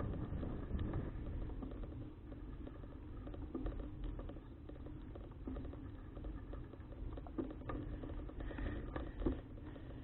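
Riding noise from a bicycle picked up by an action camera: a steady low rumble of wind on the microphone and tyres on the road, with a few scattered light clicks, the sharpest near the end.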